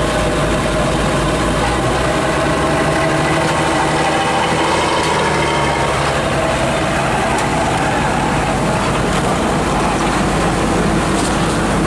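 Heavy truck engine running steadily, its pitch shifting slightly around the middle.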